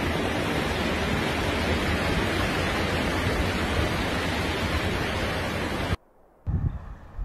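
Steady rushing noise of storm wind that cuts off suddenly about six seconds in. It is followed by low rumbling buffets near the end.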